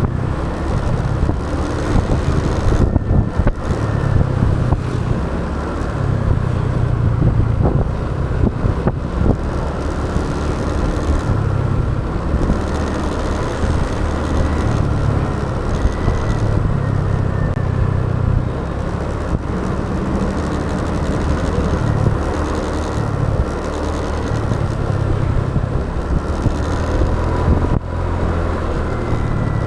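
Motorbike riding on a city road: its engine runs steadily under continuous road and wind noise, with the sound of surrounding traffic.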